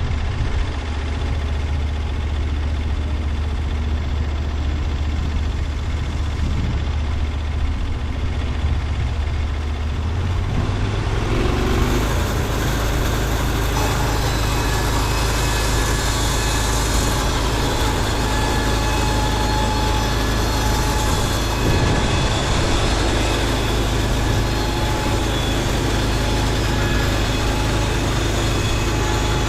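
Engine of a Norwood LumberPro HD36V2 portable band sawmill running steadily. About eleven seconds in its note shifts and the sound grows fuller, then holds steady.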